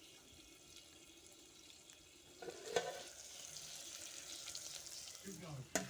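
Pork frying in a pot, with a faint sizzle that grows louder about two and a half seconds in, a single knock of a utensil against the pot, and a sharp click near the end.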